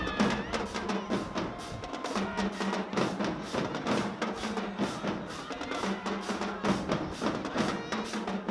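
Marching band drumline playing a fast, driving cadence: a steady run of snare and drum strokes with recurring low held notes underneath.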